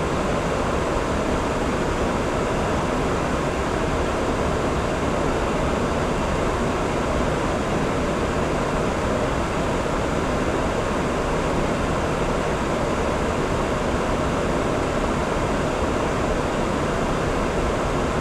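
Steady rushing noise on the flight deck of an Airbus A340 in descent: airflow and air-conditioning noise, even and unchanging.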